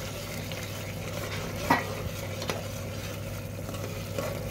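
Spice masala sizzling in hot oil in an aluminium pressure cooker while a metal spoon stirs and scrapes through it, the spices being bhuna (fried down). A sharp knock comes a little before the middle, and a fainter one shortly after.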